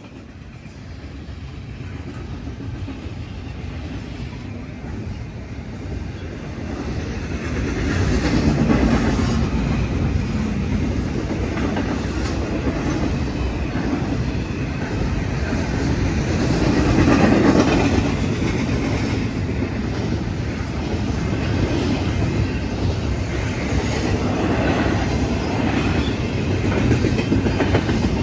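Double-stack intermodal freight cars rolling past at a grade crossing: a continuous rumble of steel wheels on the rails, with clacking over the track joints and the crossing. It builds over the first several seconds as the train comes through.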